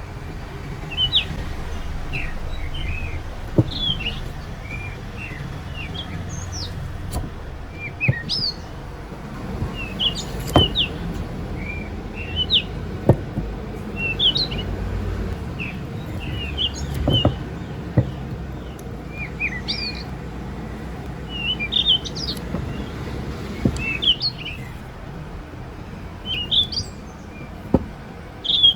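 Small birds chirping repeatedly in short, high call notes, with several sharp clicks or knocks and a low steady hum underneath.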